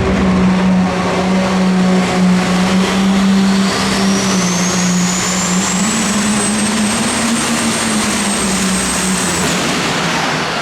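Competition pulling vehicle's engine running hard under load. A thin high whine climbs from about four seconds in and holds until near the end.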